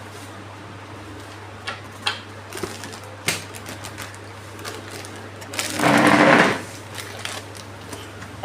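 Handling noises: scattered clicks and knocks, and about six seconds in a loud, rasping noise lasting about a second, over a steady low hum.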